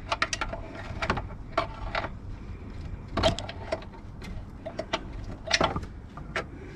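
Irregular metallic clicks and knocks from tools and parts being handled while a manual gearbox is worked loose from the engine. The two loudest knocks come about three seconds in and again about five and a half seconds in.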